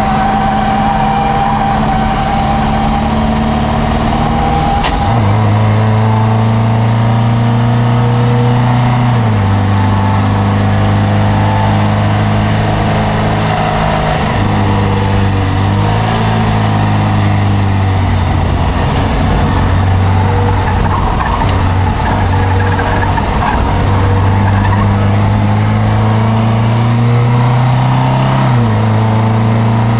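Triumph Dolomite Sprint's 2.0-litre 16-valve slant-four engine pulling hard, heard from inside the cabin. Its pitch climbs slowly through the gears and drops sharply at upshifts about nine seconds in and near the end. Around the middle it dips and wavers as the car slows for a bend, with a single click about five seconds in.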